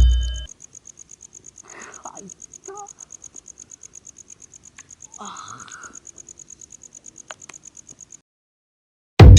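A rapid, even, high-pitched chirping of an insect, like a cricket, pulsing several times a second, with a couple of faint brief murmurs in the background. It follows the tail of loud drum music and stops suddenly about a second before the end.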